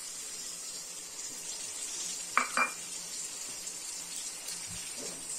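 Chopped onion and fresh tomato sizzling gently in oil in a metal kadai, a steady soft hiss. Two light knocks come close together about two and a half seconds in.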